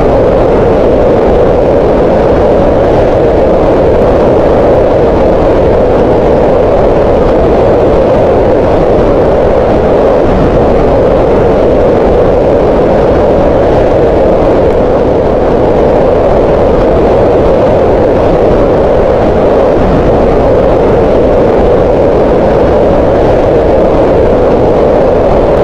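Green noise: a steady, unchanging hiss with its energy concentrated in a band around 500 Hz, sounding full and soft rather than bright.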